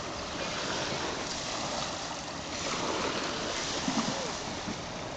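Steady rushing of wind and river water, swelling and easing in waves.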